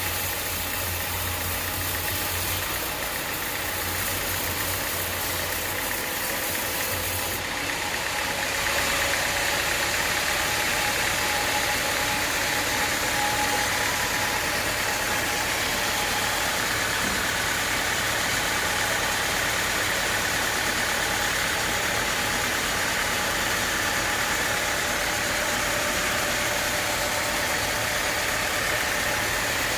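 Sawmill machinery running steadily. About seven seconds in the sound changes: a low hum drops away and a slightly louder, higher-pitched running sound takes over.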